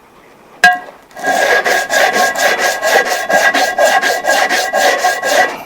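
A single knock, then rapid back-and-forth hand scraping, about five strokes a second for roughly four seconds, with a steady squealing tone running through the strokes.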